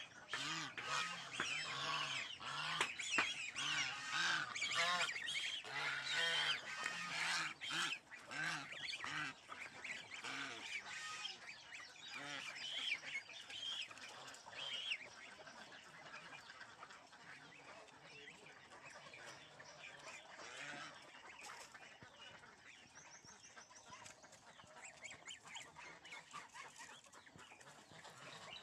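Birds calling: repeated low honking calls over busy higher chirping, dense for the first half and thinning out from about halfway through.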